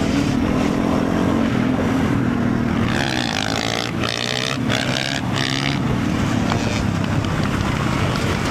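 Motorcycle engine running steadily while riding, with wind and road noise. Near the middle, a higher pitched sound comes and goes in four short pieces.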